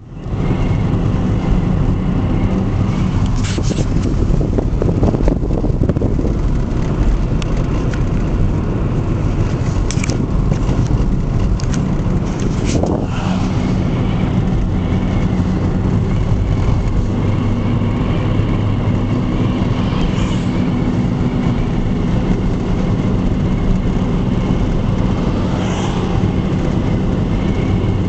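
Car driving along a highway: steady engine and road rumble, with a few brief sharper noises about 4, 10 and 13 seconds in.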